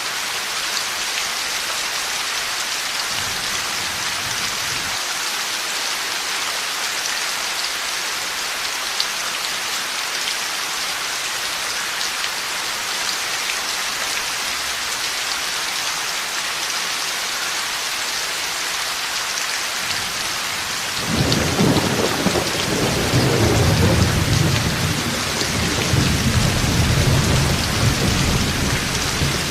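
Heavy rain falling steadily with an even hiss. About two-thirds of the way in, a long low roll of thunder sets in and rumbles on, louder than the rain, to the end.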